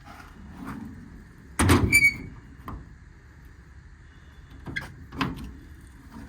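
Metal compartment door on a truck service body being worked: a loud clank of the door and latch about one and a half seconds in, with a short metallic ring, then a couple of lighter clicks near the end.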